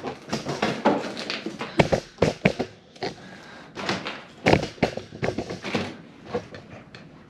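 Irregular wooden knocks and clunks, some sharp and loud, as freshly cut pine boards are handled and set down.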